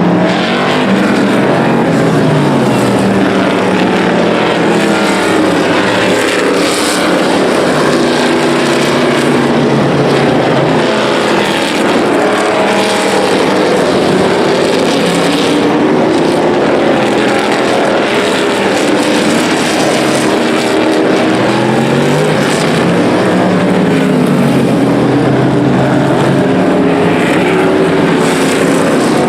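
Vintage race car engines at racing speed, loud and continuous, several at once. Their pitch repeatedly climbs and drops as they rev through the gears and pass by.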